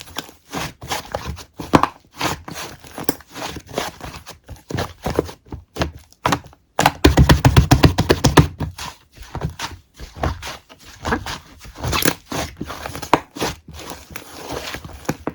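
Fingers repeatedly poking and squeezing something soft and squishy, giving short crinkly taps and squishes, with a fast run of taps about seven seconds in.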